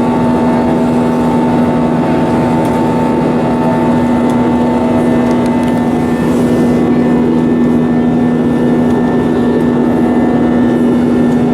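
Cabin noise aboard an Airbus A320 jetliner: the jet engines run steadily with a constant low hum and a few steady tones over a rushing noise.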